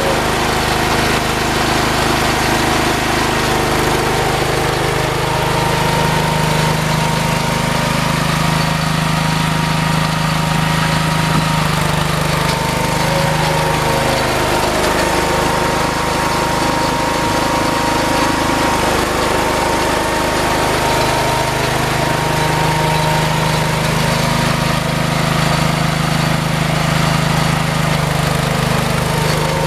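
Small garden tractor engine running steadily while working, its pitch sagging and recovering twice as the load changes.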